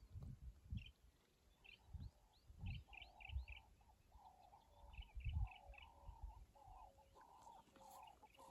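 Faint wild bird calls: quick runs of short, high hooked chirps and a steady series of lower buzzy notes that goes on from about two seconds in, with a few soft low thumps.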